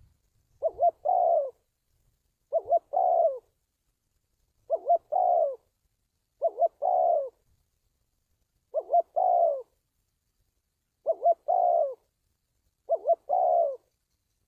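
Spotted dove cooing: two short notes followed by a longer coo that falls at its end, the phrase repeated seven times about every two seconds.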